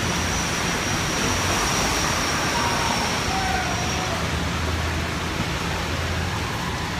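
Steady hiss of heavy rain on a city street, with the low hum of traffic underneath.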